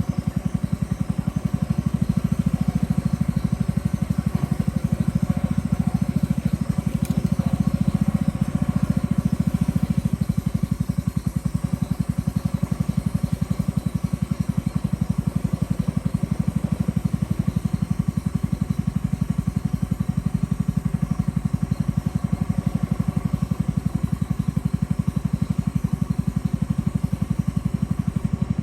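Boat motor running steadily at constant speed, a low engine note with a rapid, even pulse.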